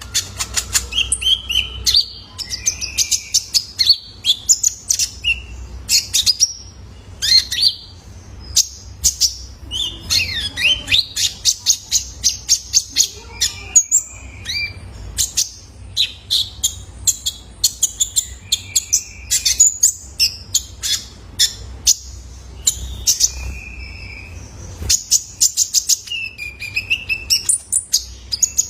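Young male kolibri ninja, a sunbird, singing: a nearly continuous run of rapid high chirps and short trills, with a faint low hum underneath.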